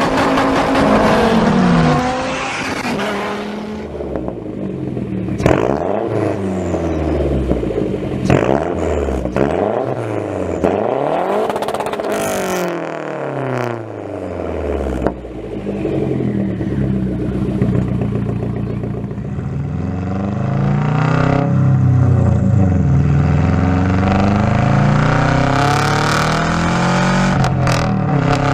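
A car engine with a straight-pipe exhaust, revved repeatedly so its pitch rises and falls several times, then running louder and steadier at higher revs for the last several seconds.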